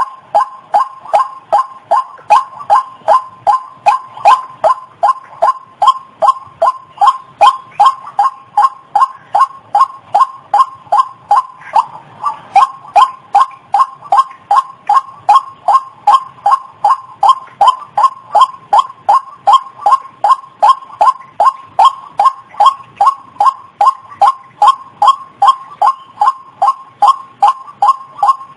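White-breasted waterhen ('ruak-ruak') call used as a lure: a monotonous, even series of short clipped notes, about two and a half a second, with a brief break about twelve seconds in.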